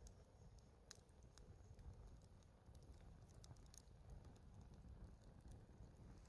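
Faint, sparse crackles and pops of a wood fire over a low steady rumble.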